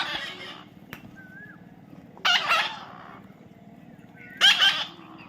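Parrot squawking: three loud, harsh calls about two seconds apart, with a few faint whistled chirps between them.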